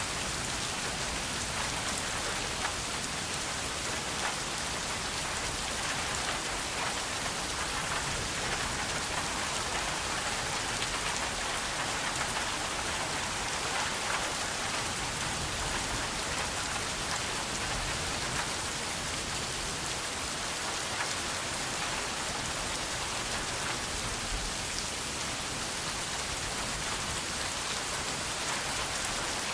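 Steady rain falling, an even hiss of many drops hitting a surface, with faint individual drop ticks scattered through it.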